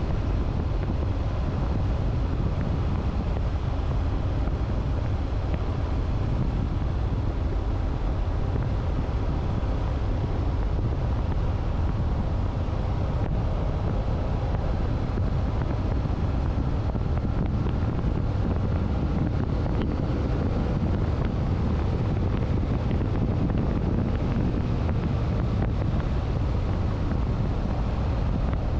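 Wind rushing over the microphone of a moving motorcycle, a steady low rumble, with the motorcycle's engine running evenly underneath as a faint steady hum.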